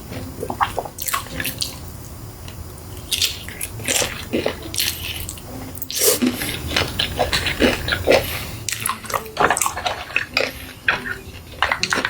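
Close-miked eating: chewing with wet mouth sounds and irregular clicks, busier in the second half.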